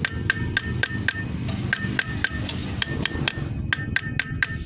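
Hammer tapping on metal, about four quick blows a second with a short pause a little past the three-second mark. Each strike leaves a brief metallic ring.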